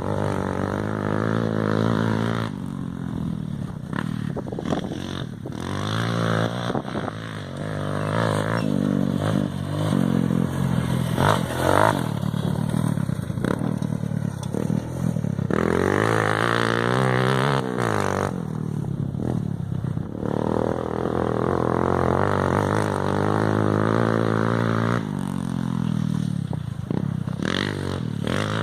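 Motorcycle engine running and being revved over and over, its pitch rising and falling repeatedly.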